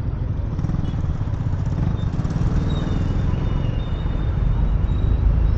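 Wind rushing over a lavalier mic worn under a balaclava inside a half-face motorcycle helmet while riding, a dense low rumble with the motorcycle's engine and road noise mixed in.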